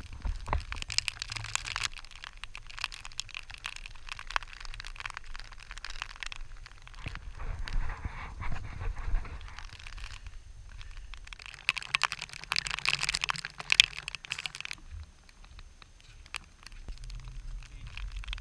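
Wind buffeting the microphone in gusts, with crunching and rustling from walking in rain gear.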